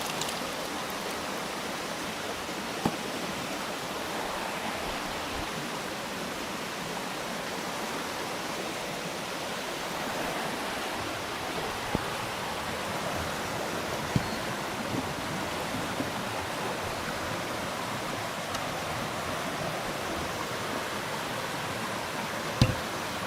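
Steady rushing of running water, with four short sharp knocks or snaps over it, the loudest near the end.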